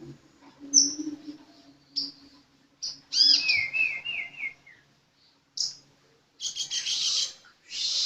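A sunbird (the bird Indonesian keepers call a 'kolibri') singing actively: sharp high chirps, then about three seconds in a phrase of quick repeated notes, and from about six and a half seconds a rapid, buzzy high trill.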